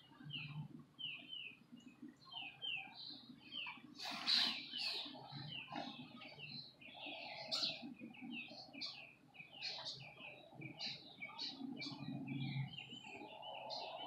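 Several songbirds chirping and calling together: a dense run of short, quick, downward-slurred notes, with a louder burst of calls about four seconds in.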